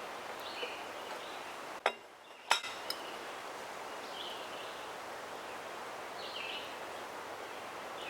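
Steady outdoor background noise with a few short, high chirps, likely birds, scattered through it. Two sharp clicks come about two seconds in, half a second apart.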